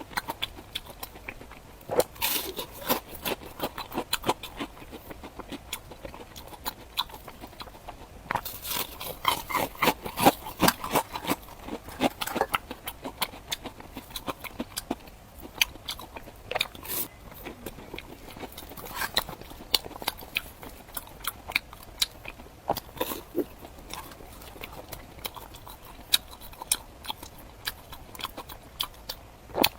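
Close-miked eating sounds: crunchy bites and chewing, coming in bursts every few seconds.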